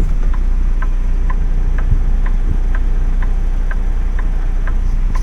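Semi truck's flasher relay ticking evenly about twice a second, turn signal or hazards on, over the steady low rumble of the idling engine heard from inside the cab.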